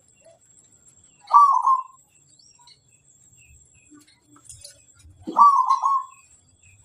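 Zebra dove (perkutut) cooing: two short phrases of a few rapid notes, about four seconds apart.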